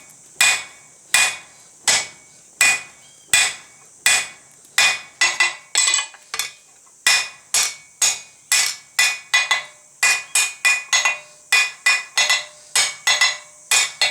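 Hand hammer blows on a piece of car-axle steel on an anvil, forging it down to a point. The strikes ring, about one and a half a second at first, quickening to about three a second from halfway through.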